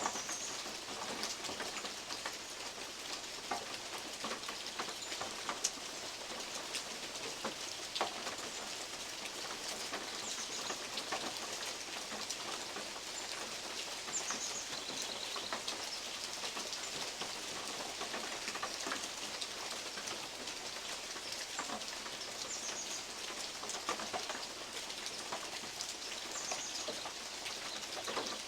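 Steady rain, with big drops from oak leaves pattering and clicking irregularly on a metal roof; a few drops land more sharply than the rest. A bird chirps briefly now and then.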